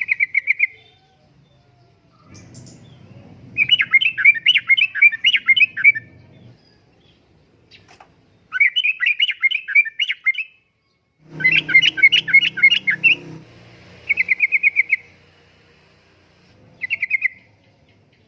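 Yellow-vented bulbul (trucukan) singing in about six separate bursts of rapid bubbling, chattering notes. The three middle phrases last about two seconds each, and the last two are short.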